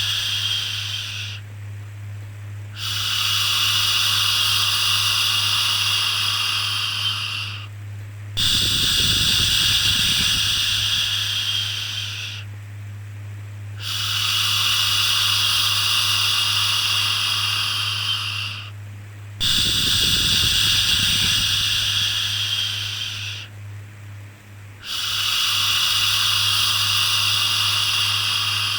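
A long 'shhh' shushing sound repeated over and over, each shush lasting about four to five seconds with a short pause between, over a steady low hum.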